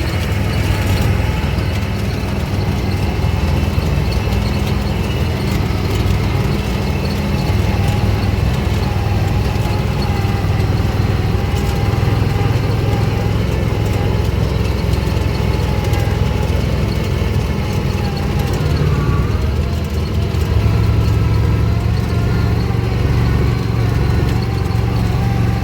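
All-terrain vehicle engine running steadily under way, with a whine that wavers in pitch; the engine eases off briefly about nineteen seconds in, then picks up louder.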